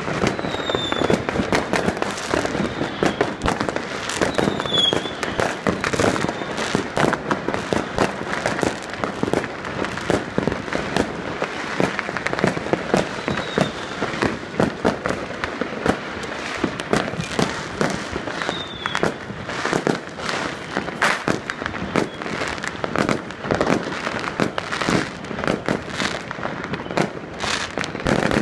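New Year's fireworks and firecrackers going off in many places at once: a dense, unbroken run of bangs and pops, with a few short whistles.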